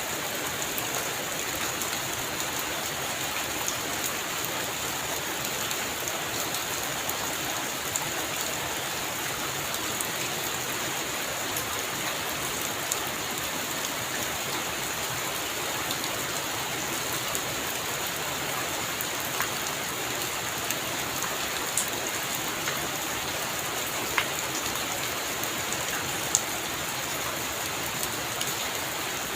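Heavy rain falling steadily on a roof, with scattered sharper drop hits.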